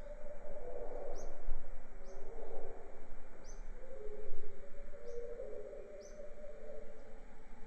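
A bird repeating a short high chirp about five times, roughly once a second, over a steady background of jungle noise.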